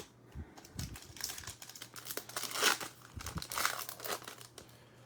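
A foil trading-card pack wrapper being torn open and crinkled in the hands, a run of crackling rustles and small clicks with the loudest crunch a little past the middle.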